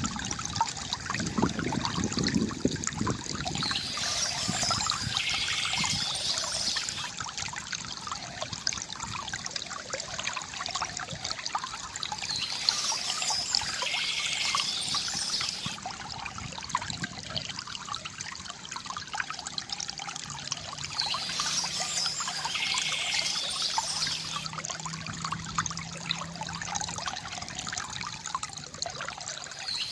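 Water trickling and pouring steadily from a bamboo fountain, with a short burst of bird chirping recurring about every eight seconds.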